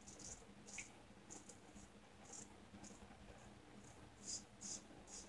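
Faint, short scraping strokes of a shavette razor blade (Shear Mattaki with a Gillette Wilkinson Sword blade) cutting stubble on lathered skin, about a dozen irregular strokes, the loudest a little over four seconds in.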